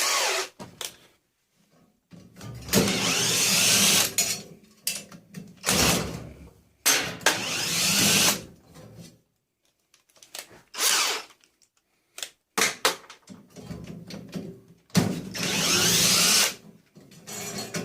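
Power drill run in repeated bursts of one to two seconds, about six times, drilling into the tumble dryer's metal parts to free them for scrap.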